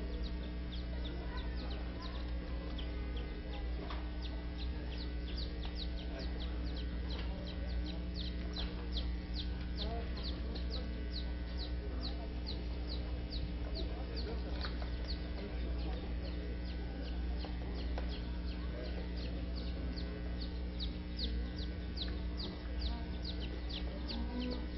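A bird chirping rapidly and evenly, about three short high falling chirps a second, over a steady low electrical hum.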